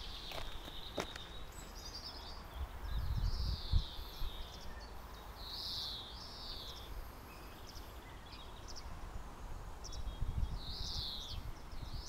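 Songbirds singing: short, high, falling phrases repeated every second or so, over a faint steady outdoor hiss, with a couple of brief low rumbles on the microphone.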